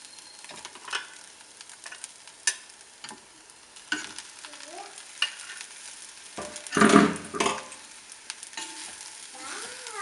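A spatula scraping and stirring through a pan of dry-roasted grated coconut masala as fried chicken pieces are added and mixed in, with a light sizzle underneath. There are scattered clicks of the spatula on the pan and a louder stretch of scraping about seven seconds in.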